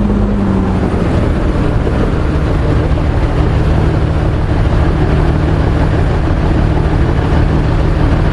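MAN 32.281 tipper truck's diesel engine running steadily, its note dropping slightly to lower revs about a second in.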